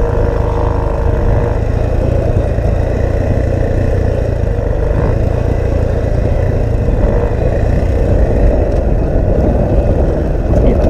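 Off-road vehicle's engine running in first gear going down a rutted, washed-out hill, with heavy wind noise rumbling on the microphone.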